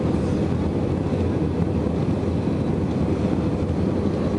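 Steady cabin noise inside an Airbus A320 in flight: the jet engines and rushing airflow make an even, deep roar with no changes.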